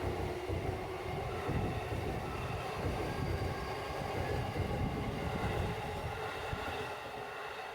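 A JR electric commuter train running past on the tracks, a continuous rumble of wheels on rail that begins to fade near the end.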